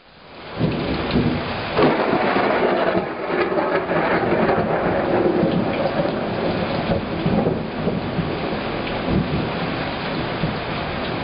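Heavy downpour with a long rolling rumble of thunder, strongest in the first half and slowly dying away while the rain keeps falling. The sound comes in from a brief dropout at the very start.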